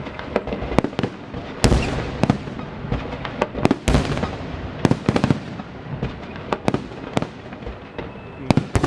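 Festive fireworks salute: a string of sharp bangs and cracks at irregular intervals, some in quick clusters, over continuous crackling.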